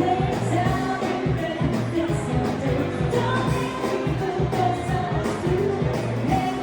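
Live band playing a pop song, with a singer over a steady drum beat.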